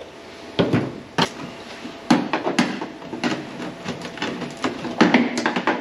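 Sharp knocks and clanks of sheet steel on the truck cab, about half a dozen hits with a short ring after each, the loudest near the end.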